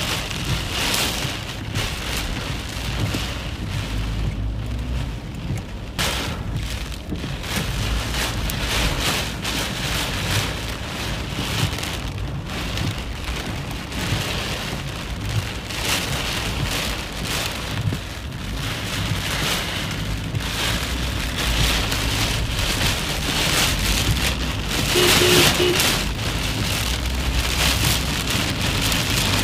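Heavy rain pelting a car's windshield and roof, heard from inside the car as a dense, steady patter over a low rumble, getting heavier for a moment near the end.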